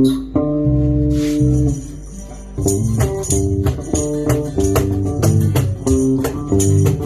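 Small band playing an instrumental passage on guitars and bass: held chords at first, then a steady strummed rhythm with sharp percussive clicks from about two and a half seconds in.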